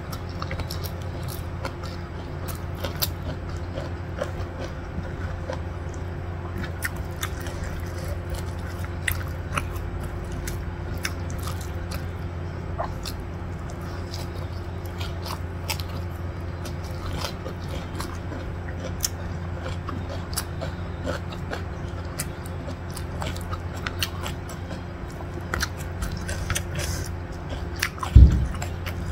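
Close-miked eating sounds: a person chewing rice and stir-fried pak choy, with many small wet mouth clicks over a steady low hum. A single loud low thump comes near the end.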